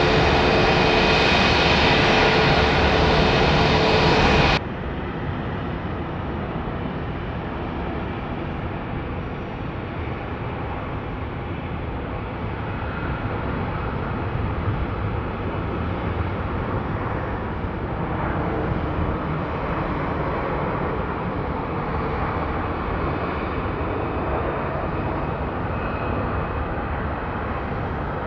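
Jet airliner engines running loud, with steady whining tones over the rumble, cutting off suddenly about four and a half seconds in. A quieter, steady jet rumble follows and slowly grows louder.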